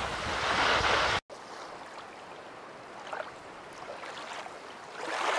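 Rushing sea noise of surf or wind, cut off abruptly about a second in; then soft sea-water lapping with a few faint splashes, swelling to a rush again near the end.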